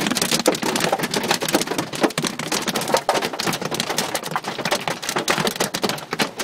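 Heavy rain pelting the car's roof and windshield, heard from inside the cabin: a loud, dense, irregular patter that does not let up.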